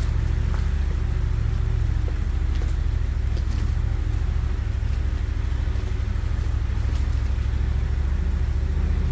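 Pickup truck running steadily along a dirt trail, heard from the open truck bed: a constant low engine and drivetrain rumble.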